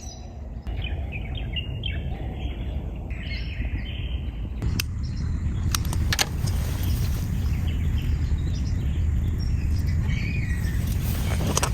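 Birds chirping in short scattered calls over a steady low rumble, with a few sharp clicks around the middle.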